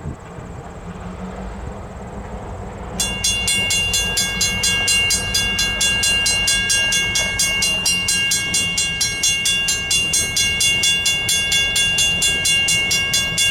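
Railroad crossing's WCH mechanical bell starts ringing about three seconds in, with rapid, evenly spaced strikes, signalling an approaching train. A low steady rumble of the approaching train runs underneath.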